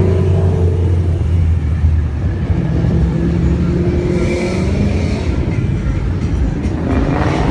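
Car engines running steadily, with one engine's pitch rising as it revs shortly before the end.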